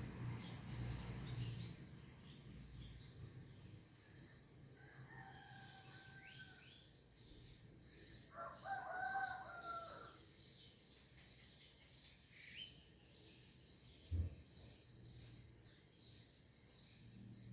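A rooster crowing twice, the second crow about 8 s in the stronger one, over steady chirping of small birds or insects. A short sharp thump comes about 14 s in.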